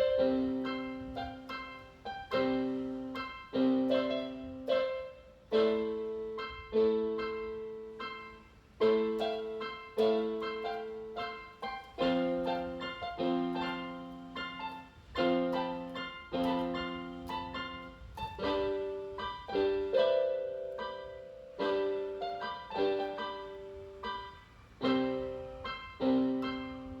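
Background music: a piano playing a slow melody of struck chords, each one fading before the next.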